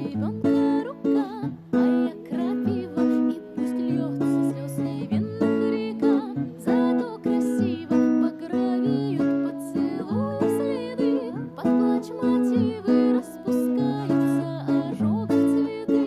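Acoustic guitar strummed in a steady, rhythmic chord pattern, with the bass notes repeating about every two seconds.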